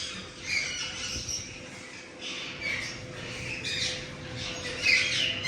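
Aviary parrots squawking and chattering: many short, overlapping calls.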